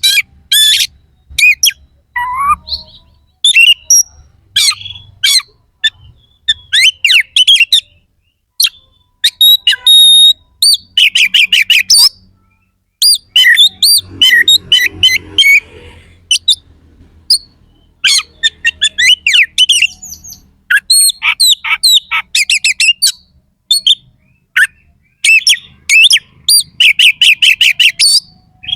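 Oriental magpie-robin (kacer) singing loudly in quick bursts of whistled and harsh, rapidly repeated notes, phrase after phrase with short pauses between, the rough mimicry-filled song called isian kasar.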